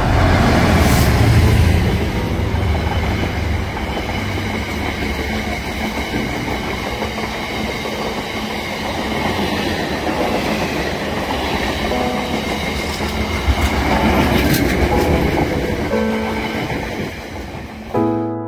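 GB Railfreight Class 66 diesel-electric locomotive passing close by, its two-stroke diesel loudest in the first two seconds. A long rake of container flat wagons follows, their wheels clattering steadily, before fading near the end.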